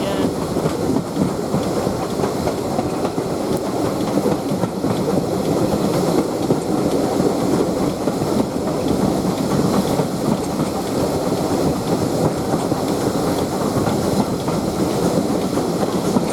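Steam-hauled heritage train running along the line: a steady rumble and rattle of the carriage wheels on the track, with clicking over the rail joints.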